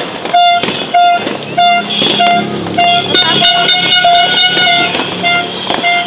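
A horn beeping in short, evenly repeated blasts, about three a second, among sharp firecracker pops; a second, brassier horn joins for a couple of seconds in the middle.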